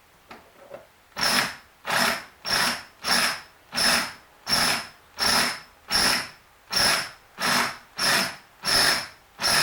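Power drill run in short, evenly repeated bursts, about three every two seconds, each with a high whine, while drilling out the kayak's seat mounts. The bursts start about a second in.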